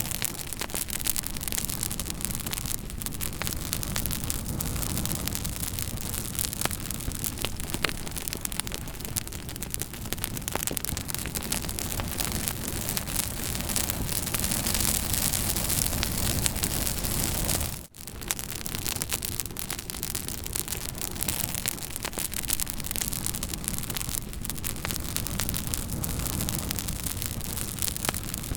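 Campfire burning: a steady hiss and low rumble with frequent sharp crackles and pops from the burning wood. The sound cuts out for an instant about two-thirds of the way through.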